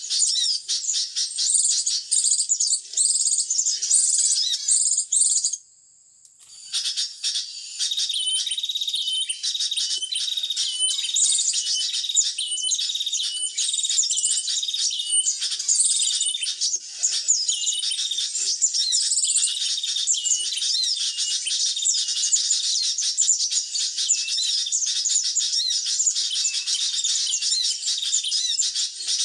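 Dense, continuous high-pitched chirping and twittering of sunbirds. The chirping breaks off abruptly for about a second around six seconds in, then resumes.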